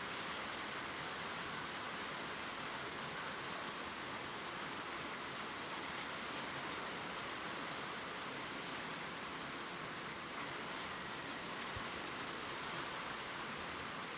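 Steady gentle rain falling on leaves, an even hiss with faint scattered drop ticks.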